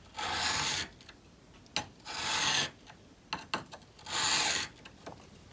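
An old steel chisel drawn across a wet whetstone during hand sharpening: three long scraping strokes about two seconds apart, with a few light clicks between them.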